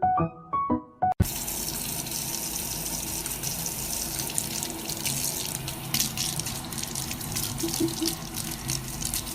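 A few piano notes, then, about a second in, an abrupt change to a steady rush of running water.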